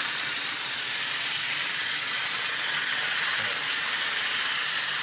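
A motorised toy Henry the Blue Engine train running on its track, making a steady hissing whir.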